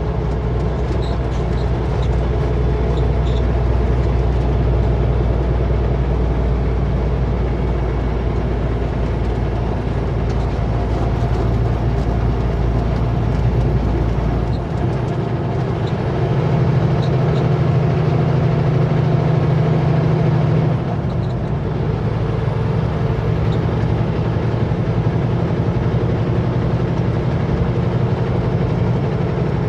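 Kenworth W900L semi truck running down the highway: a steady engine drone with road noise, its engine note shifting about halfway through and again a few seconds later.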